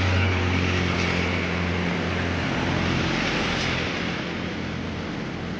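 A motor running steadily with a low hum under a rushing noise; the hum eases a little about halfway through.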